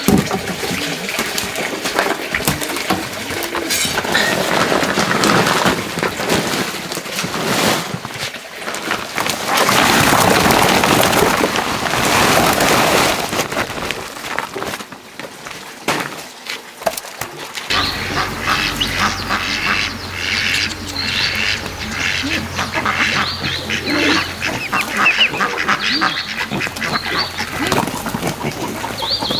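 Farm ducks quacking over and over. A loud rushing noise fills the first half, and the quacks come thick and fast in the second half over a low steady hum.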